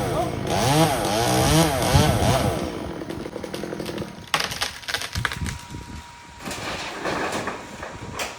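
Chainsaw engine revving up and down several times for the first two seconds or so, then dying away. A scatter of sharp cracks and knocks follows.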